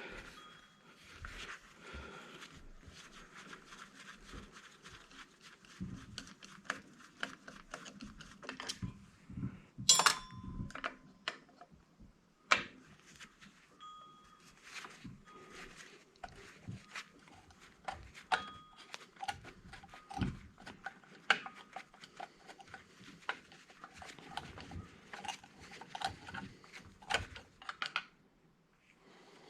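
Small metal parts and hand tools clicking and clinking as an old electric angle grinder is taken apart by hand, with two sharper knocks about ten and twelve seconds in.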